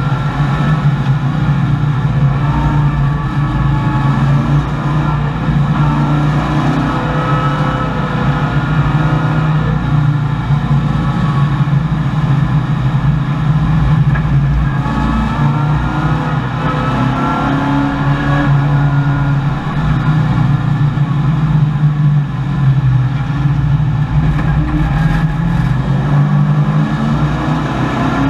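A Chevrolet Camaro's V8 race engine heard from inside the cockpit, running hard at racing speed with its revs rising and falling again and again as the driver works through the gears and corners.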